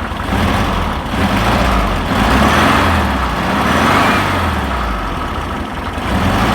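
VW T2 camper's 1641 cc air-cooled flat-four engine running steadily, its sound swelling and easing a few times.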